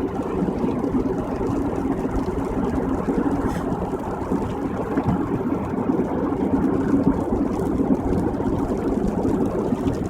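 Steady road and engine noise heard from inside a car's cabin while it cruises at freeway speed, a constant low rumble.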